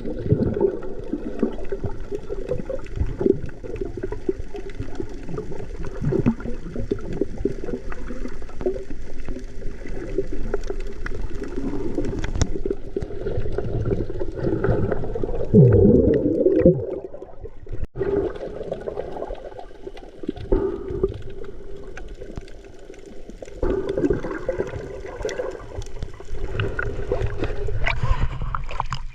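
Muffled water sound, as heard through a camera held underwater: a steady low sloshing and bubbling full of small crackles, with a louder gurgling swirl about halfway through.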